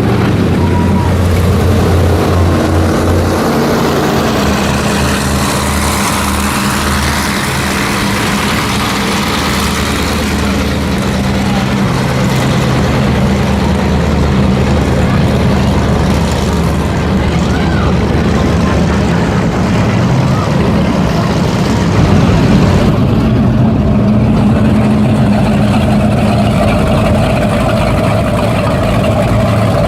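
Engines of several performance boats running at low speed, a steady low rumble whose pitch shifts as boats come and go.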